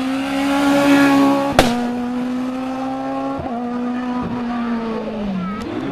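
Rally car engine held at high revs, with one sharp crack about a second and a half in and a smaller knock in the middle. Near the end the revs fall, then pick up again.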